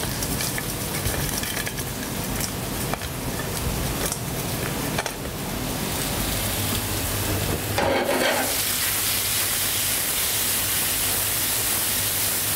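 Food frying in pans, with a few clicks of handling. About eight seconds in, marinated prawns go into a hot pan of fat and a louder, hissing sizzle starts and keeps going.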